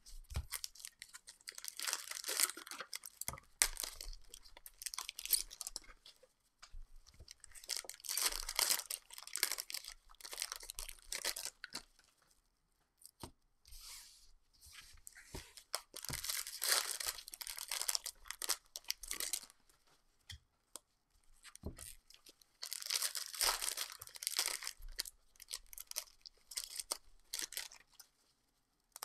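Trading-card pack wrappers being torn open and crinkled by hand, in four separate spells of crackling a few seconds each.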